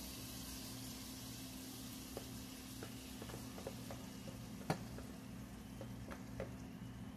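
Pancakes frying with a faint sizzle over a low steady hum, with a few light clicks scattered through; the sharpest click comes a little under five seconds in.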